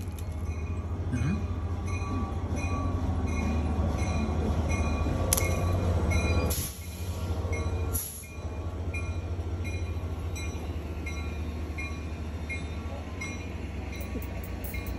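Train rumbling steadily with a faint regular ticking about twice a second. A few sharp clicks come between about five and eight seconds in, and the rumble dips briefly near the middle.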